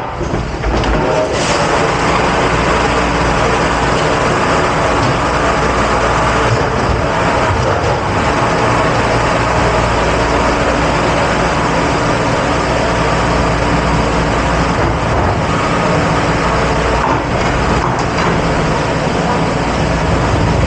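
Steady, loud din of a commercial kitchen dish pit at work: machinery running with a low hum under a dense rushing noise, unbroken throughout.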